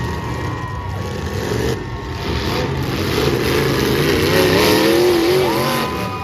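Demolition derby cars' engines running and revving, the pitch wavering up and down, and growing louder for a couple of seconds past the middle.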